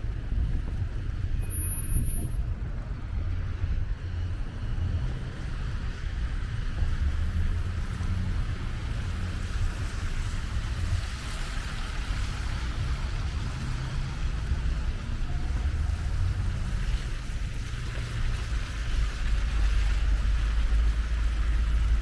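Wind buffeting the microphone in a snowstorm, over the steady noise of street traffic; the rumble grows heavier near the end.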